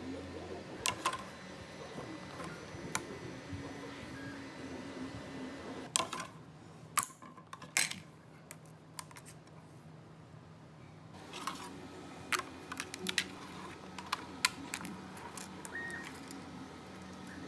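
Prusa 3D printer running, its stepper motors humming at steady pitches that shift every few seconds. Sharp clicks and taps come through, in clusters around the middle and later on.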